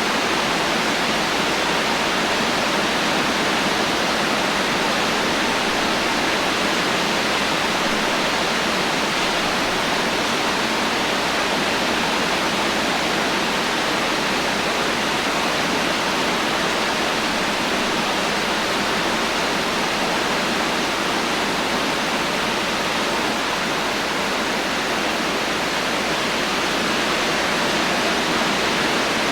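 Heavy, steady rain falling as a dense, even hiss, with no thunder and no separate drops or drips standing out.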